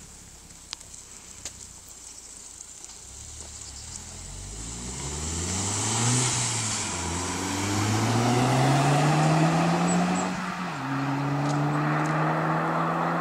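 Volkswagen Golf V GTI's turbocharged 2.0-litre four-cylinder engine pulling with rising revs that grow louder. The pitch drops sharply about ten and a half seconds in, as at a gear change, then holds steady at higher volume. The first few seconds are quiet apart from a few faint clicks.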